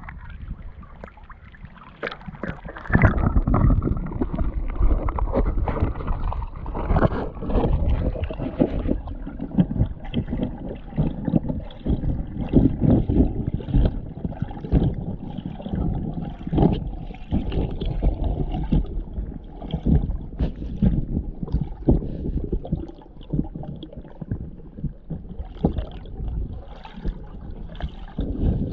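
Creek water sloshing and splashing in irregular surges, with scattered knocks and bumps, getting louder about three seconds in.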